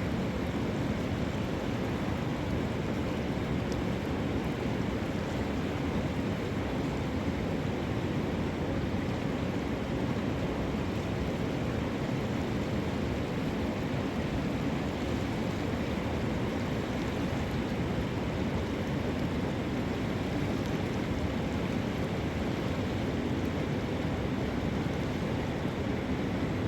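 Steady rushing of river water, an even, unbroken noise that does not change.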